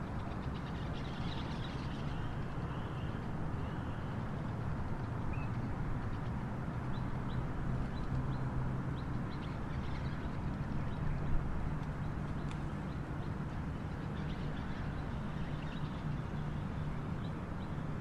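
Birds chirping in short, scattered calls over a steady low drone and background hiss, with one sharp tick about eleven seconds in.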